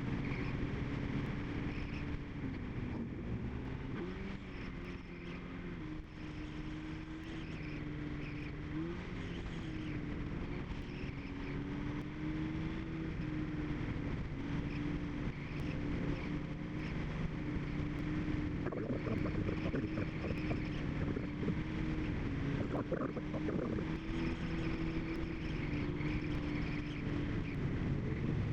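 Car engine running at a steady freeway cruise, with constant road and wind noise. The engine pitch dips and rises a few times in the first third, then holds steady.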